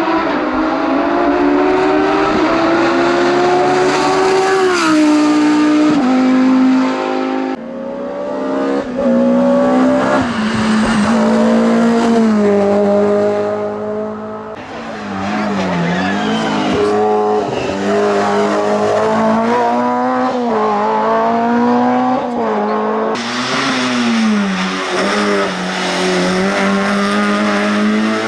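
Hillclimb race cars at full throttle, the engine note climbing through the revs and dropping sharply at each upshift, again and again. The sound changes abruptly three times as one car's run gives way to another's.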